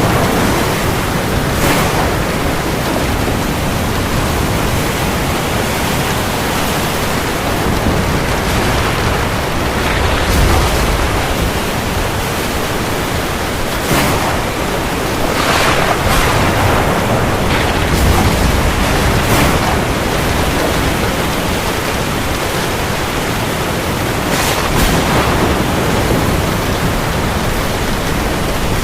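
Steady heavy rain falling on the sea, a continuous hiss with a few brief louder surges.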